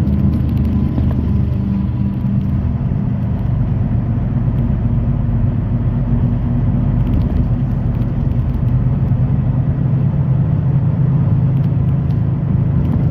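Semi truck's diesel engine running steadily with road rumble while driving, a constant low hum.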